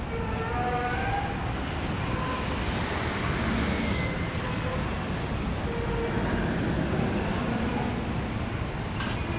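Steady rumbling vehicle noise, with a few faint tones in the first second or so and light clicks near the end.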